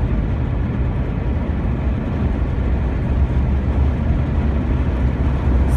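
Steady low rumble of road and engine noise inside a car's cabin, cruising at about 50 mph.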